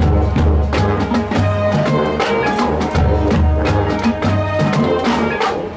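Marching band playing loud: brass and winds over a repeating low bass line, with sharp percussion hits throughout. The full band comes in suddenly right at the start.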